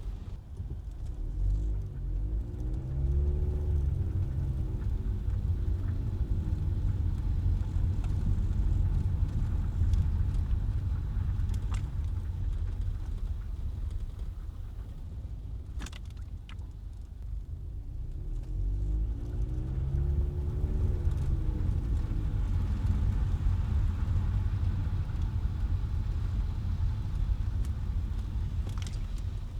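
Car driving through city traffic: a steady low rumble of engine and road, with the engine pitch rising and then falling twice, about three seconds in and again about twenty seconds in. A few sharp clicks sound near the middle.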